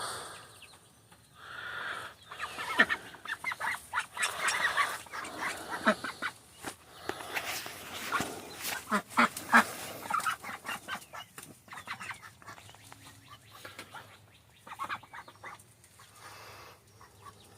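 A backyard flock of ducks and chickens calling while they feed: short quacks and clucks coming irregularly, busiest in the first half.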